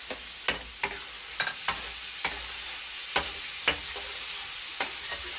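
Squid rings and grated tomato sizzling in olive oil in a paella pan, stirred with a long-handled metal utensil that knocks and scrapes against the pan about eight times.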